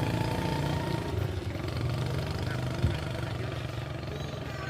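Old motorbike's small engine running steadily, its sound slowly fading. There is one sharp click about three seconds in.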